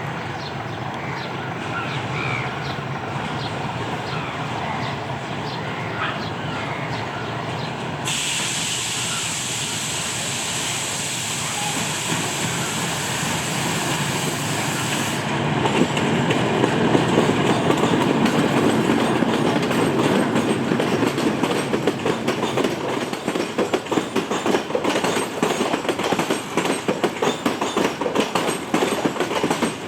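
Train passing close by on the Yangon line: a steady low rumble, then a hiss partway through. From about halfway in, the wheels clatter over the rail joints, louder and denser toward the end.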